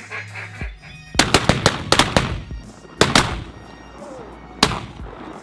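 Several shotguns firing at ducks overhead: a rapid, overlapping volley of about eight shots, then two more shots near the middle and a single last shot near the end.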